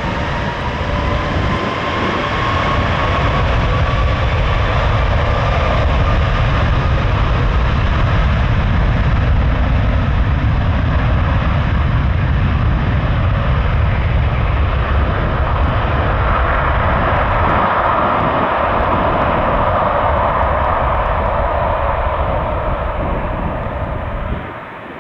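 Airbus A330-343's two Rolls-Royce Trent 700 turbofans at take-off thrust: a loud, steady jet roar with a deep rumble, and a whine that slowly rises in pitch early on. The roar swells later and then drops off sharply near the end.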